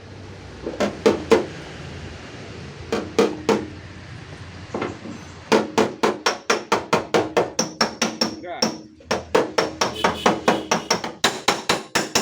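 Hammer blows on a car's sheet-metal tailgate panel, beating out a dent, each blow ringing. A few spaced blows, then from about halfway a fast run of four or five a second with a short break.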